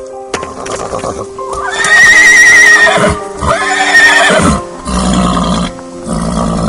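A horse whinnying twice, two long quavering calls about half a second apart, over background music.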